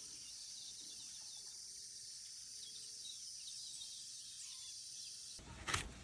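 Steady high-pitched insect chorus with faint bird chirps over it. It cuts off abruptly near the end and is followed by a couple of sharp knocks.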